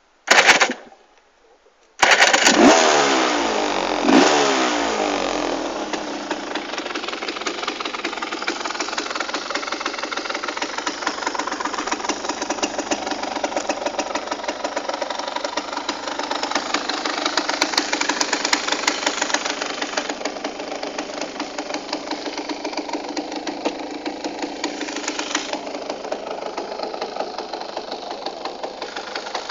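Aprilia Tuareg 125's single-cylinder two-stroke engine starting. It fires briefly and dies about half a second in, catches at about two seconds, is revved twice, then settles to a steady idle.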